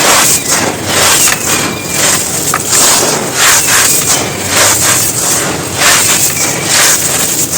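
Dry, hardened clods of earth being crumbled and crushed, with an irregular loud crunch every half second to a second and gritty crumbling in between.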